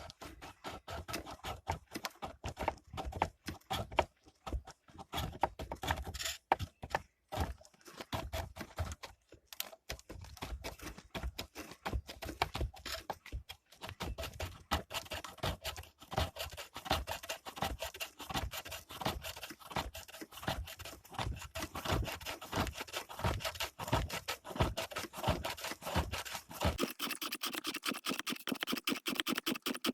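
Turning tool scraping and cutting wood turning on a homemade woodworking lathe: a rapid, uneven run of scrapes. Near the end the sound turns thinner and higher, with a quicker, more even rhythm.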